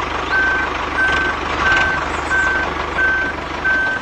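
Reversing beeper on a homemade mini tractor, a steady high beep repeating about every two-thirds of a second, over the low hum of a small motor that cuts out just before the end.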